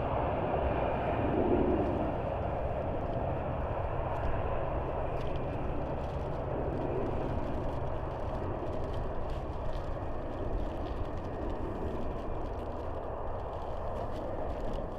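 Jet engines of a Boeing 737 BBJ, CFM56-7 turbofans, giving a steady rumble and rush that slowly gets quieter.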